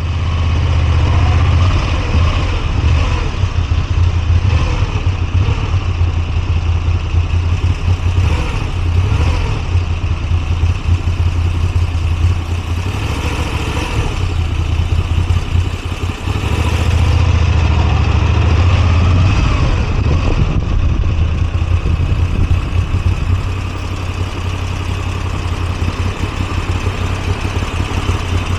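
Moto Guzzi V85TT's air-cooled V-twin engine running as the motorcycle is ridden, its pitch rising and falling with the throttle and settling a little quieter about three-quarters of the way through.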